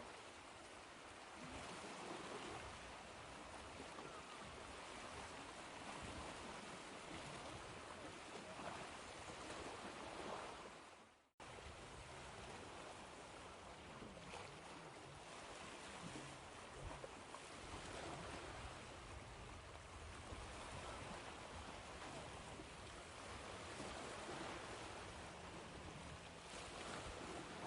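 Ocean waves washing on the shore, a continuous surf noise. About eleven seconds in it fades out to a brief silence and cuts straight back in, like a recording's loop point.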